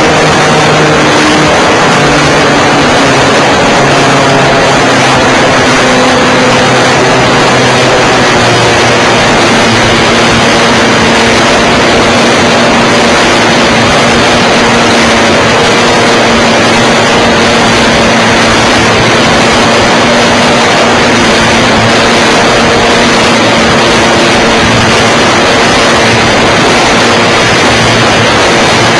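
Nitro glow engine of a Seagull Harrier 3D .91 RC model airplane running at high power, heard from a camera mounted on the plane, under heavy wind rush. The engine note shifts during the first several seconds, then holds steady.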